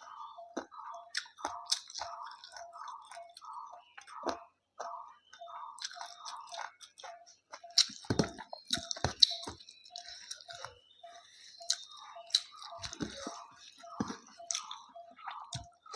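A person chewing food close to the microphone, in a steady rhythm of about two or three chews a second. Sharper crunchy bites come through, loudest about halfway through.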